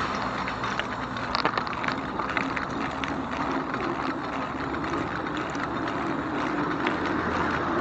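E-bike riding along a paved trail: steady rolling noise from the tyres, with scattered light rattles and clicks from the bike.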